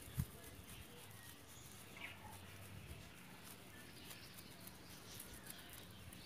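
Quiet yard ambience with faint, sparse bird chirps in the background. One soft low knock comes just after the start and is the loudest sound.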